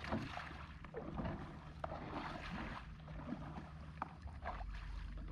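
Light splashing of shallow river water with scattered small knocks, as a kayak is moved through the shallows.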